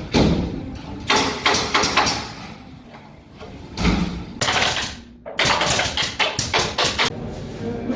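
Pneumatic nail gun (tacker) shooting nails into plywood, fired in rapid runs of clicking shots several times over.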